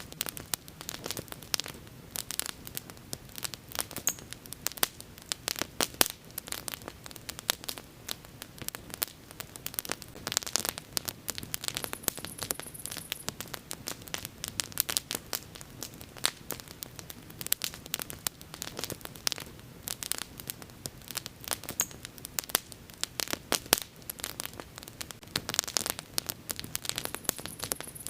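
Bonfire crackling steadily, with many sharp irregular pops and snaps from the burning wood. A faint high hiss comes in briefly twice.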